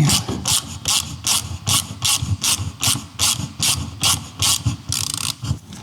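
Hand ratchet wrench being swung back and forth to undo a bolt, its pawl clicking in a steady rhythm of about two to three strokes a second.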